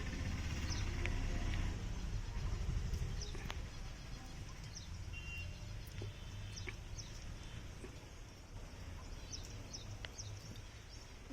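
Outdoor ambience: a low rumble, strongest in the first few seconds and easing off, with short high chirps scattered throughout and a few light clicks.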